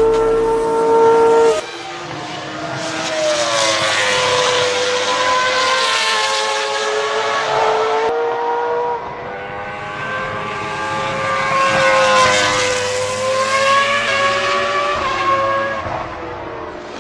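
Track-prepped Honda NSX with individual throttle bodies, its engine running hard at high revs, the pitch swelling and dipping twice in long sweeps. A steady held note breaks off abruptly about a second and a half in.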